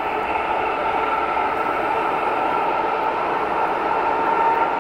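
ER9M electric multiple unit running past on the line: a steady rolling noise with a faint, even whine.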